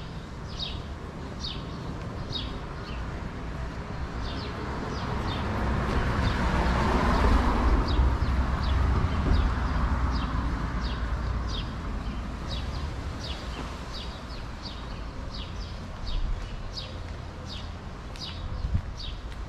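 A small bird chirping over and over, short high chirps about two to three a second. Under it a vehicle passes, swelling and fading around the middle.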